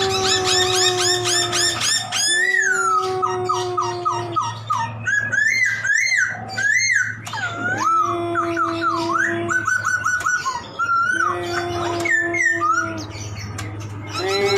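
Poksay (laughingthrush) in full song: a varied medley of rapid high chirps, loud looping, slurred whistles, and long, low held notes repeated several times.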